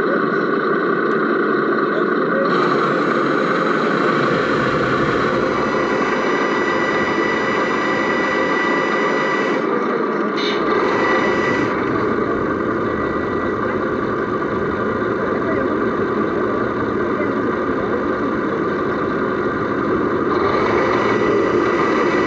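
Sound module of an RC Mercedes Actros SLT model truck playing a diesel engine running steadily, heard from inside the model's cab, with a steady high whine.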